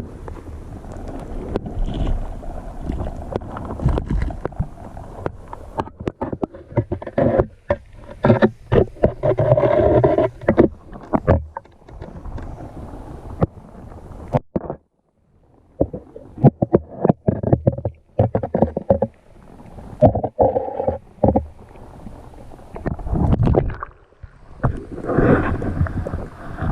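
River water running and wind buffeting the microphone in uneven gusts, with scattered knocks and a brief drop-out about halfway.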